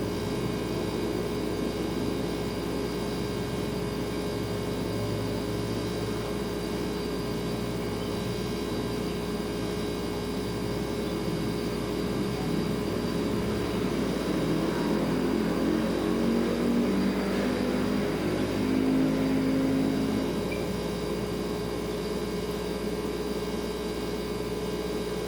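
Refrigerator humming steadily on several fixed tones. From about a quarter of the way in to about three-quarters, a louder wavering swell of noise rises and falls over it, then dies back to the hum.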